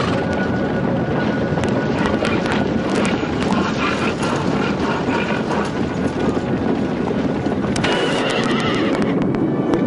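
Horses neighing and hooves clattering in a dense, continuous mass, as of mounted troops or chariots charging.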